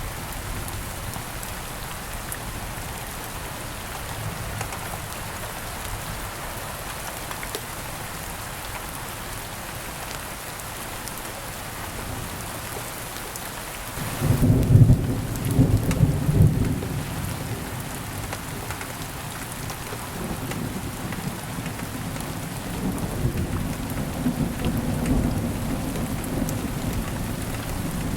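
Steady rain falling, with a roll of thunder about halfway through: a sudden loud low rumble for a few seconds, then softer rumbling that carries on under the rain.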